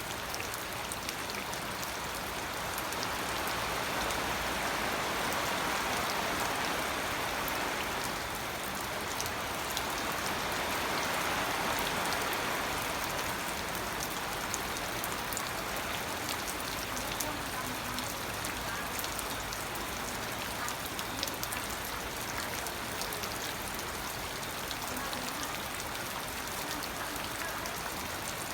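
Steady rain falling, a dense hiss of drops with many individual drop clicks, swelling a little louder twice in the first half.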